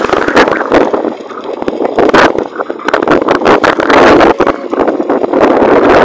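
Loud wind buffeting the microphone while cycling: a rough, gusting rumble that surges and drops every second or so.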